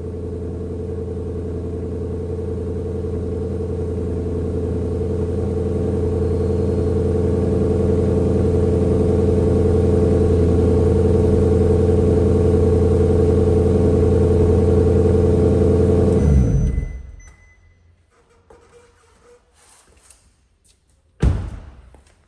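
Maserati Quattroporte GTS's 4.7-litre V8 idling steadily through its exhaust, growing slowly louder, then cutting out about sixteen and a half seconds in. After a few faint clicks, there is a single heavy thump near the end.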